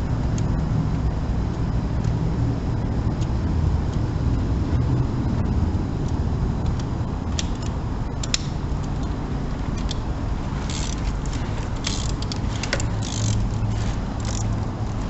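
Light metallic clinks and rattles of hand tools, a few about halfway and more often near the end, over a steady low background rumble.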